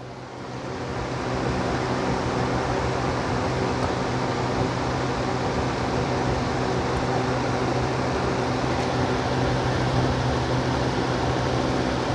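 Lasko B20200 20-inch box fan running: a steady motor hum with the rush of air, getting louder over the first couple of seconds and then holding steady. Its broken blade throws it badly out of balance, shaking the bench it stands on.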